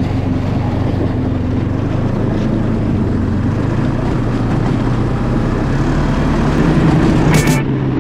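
Snowmobile engine running steadily under way, its pitch rising slightly near the end. A brief sharp high-pitched burst sounds near the end.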